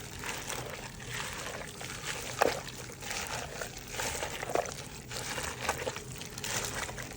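Wet sloshing and squishing of raw beef being worked into its spice marinade in a bowl, with a couple of light knocks.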